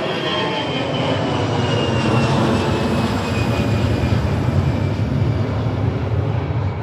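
Airliner's jet engines passing close by: a rumble that grows louder over a few seconds, with a high whine slowly falling in pitch.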